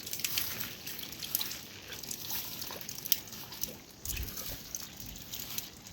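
Rain dripping and pattering: scattered sharp drip ticks over a steady wet hiss, with a dull low thump about four seconds in.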